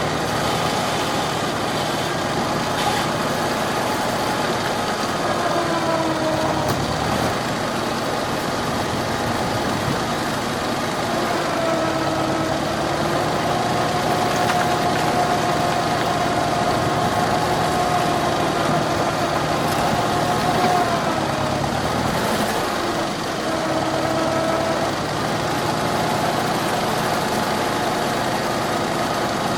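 McCormick Farmall H tractor's four-cylinder gasoline engine running steadily at work, its note dipping and rising a few times.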